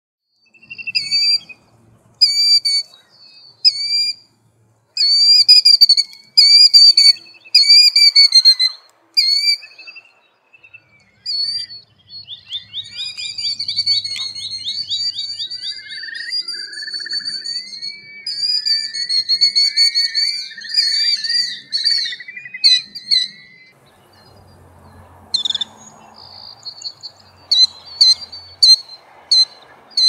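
Killdeer calling: shrill, high calls repeated in quick runs for the first third, then a long rapid trilled run in the middle, and a few sharp calls near the end over a faint rustle.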